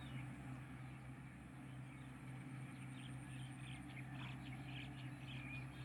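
A steady low engine hum runs throughout. From about halfway in, birds chirp over it in short high calls.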